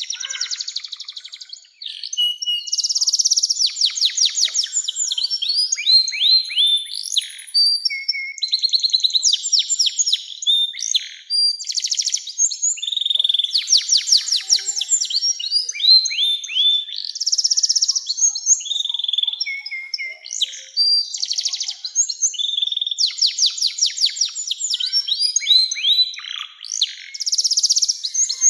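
Domestic canary singing a long, continuous song of fast trills, rapid repeated notes and quick downward-sweeping phrases, high-pitched.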